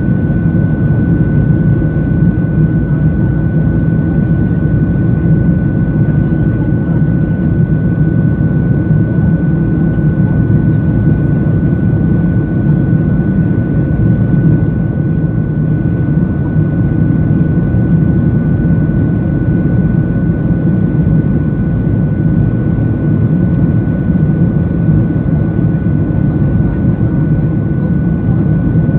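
Aeroplane cabin noise in flight: a steady, loud engine and airflow rumble with a thin, constant high whine above it.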